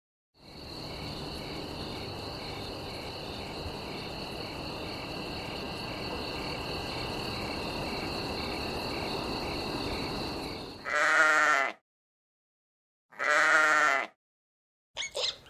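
Bleating livestock, sheep or goat: two loud bleats of about a second each, with a wavering pitch, about two seconds apart. They follow some ten seconds of steady hiss carrying a few thin, high, steady tones.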